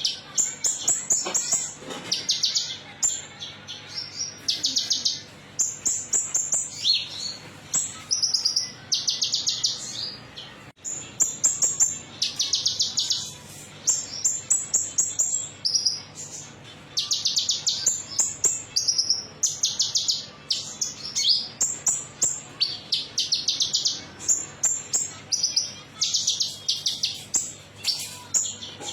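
Konin song of the kind bird keepers call 'metalik': repeated high, rapid chirping trills, each about a second long, following one another closely, with a short lull about a third of the way through. A faint steady low hum lies underneath.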